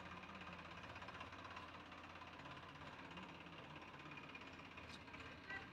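Tractor engine idling faintly: a steady low hum.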